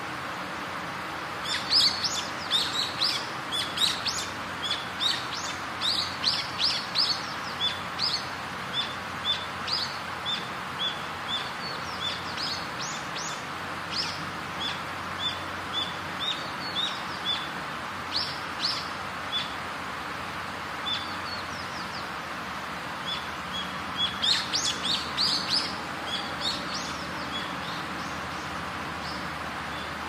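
Small birds chirping and calling in quick, repeated short notes over a steady background hiss of outdoor ambience. The chirping is busiest in the first part, thins out, pauses, and picks up again in a short burst near the end.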